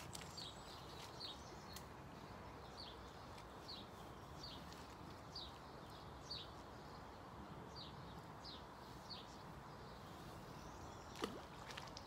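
A small bird calling faintly, a short falling chirp repeated about once a second, over a steady low outdoor background noise. One sharp knock near the end.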